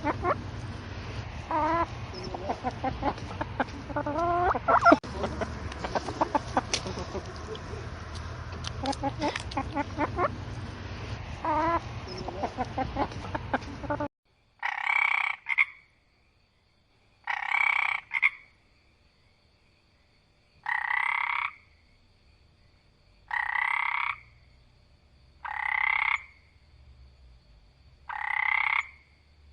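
Chickens clucking over a steady background hum, cut off abruptly about halfway through. Then six separate croaking calls of about a second each, roughly one every two and a half seconds, typical of a frog.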